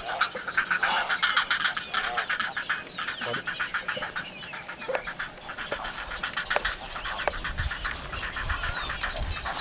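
Egret nesting colony with its chicks: a dense din of rapid, chattering calls from many birds at once, with a few higher sliding calls over it.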